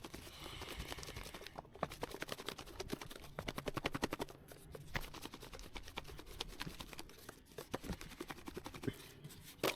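Raw chicken chunks being mixed with Kool-Aid powder in a container: a quick, irregular run of small clicks, taps and squishes that comes and goes.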